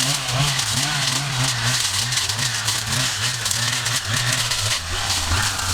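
Gas engine of yard-clearing equipment running, its pitch wavering up and down over a dense hiss.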